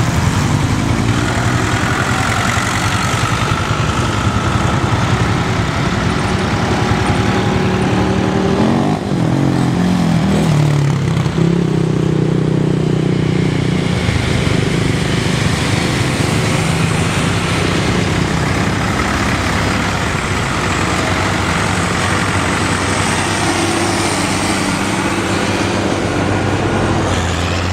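Tractor engines running, several at once, their pitch shifting as they change speed partway through, then running steadily.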